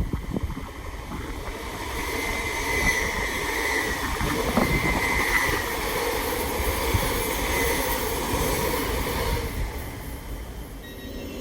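A train passing, the sound building about two seconds in and dying away near the end, with a steady high whine over the rumble of the wheels on the rails.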